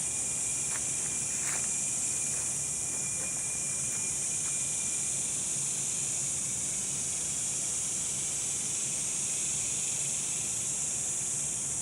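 A chorus of several cicada species calling at once, among them Quesada gigas and Neotibicen superbus, which the recordist picks out by ear. A steady, high-pitched buzz, with a thinner, lower tone that fades out about five seconds in.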